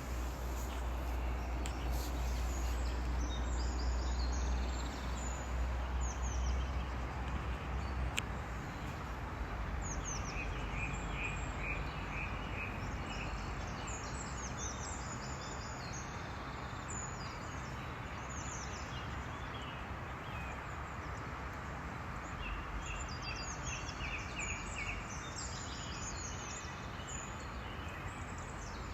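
Songbirds chirping in short repeated calls over steady outdoor background noise. A low rumble underneath fades out about eight seconds in.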